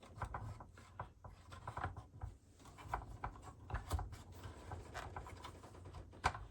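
Shower unit casing parts being handled and fitted together by hand: scattered light clicks, taps and rubbing, with a couple of sharper clicks near the end.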